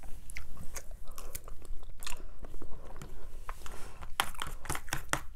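Close-miked chewing of mac and cheese: a string of short, sticky mouth clicks, coming thicker about four seconds in.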